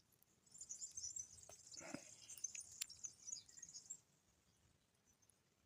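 Faint high-pitched chirping with a few small clicks and a short rustle about two seconds in, then near silence from about four seconds.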